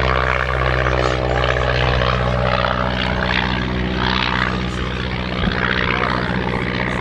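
Light propeller aircraft's piston engine running steadily as the plane flies a low figure of eight, a continuous propeller drone.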